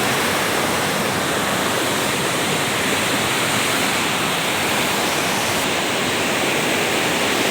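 Small waterfall rushing: a steady, unbroken roar of falling water.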